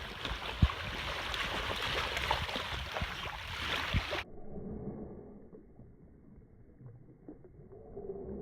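Water splashing and lapping in a steady noisy wash with a few low knocks, cut off abruptly about four seconds in, after which only faint, muffled background sound remains.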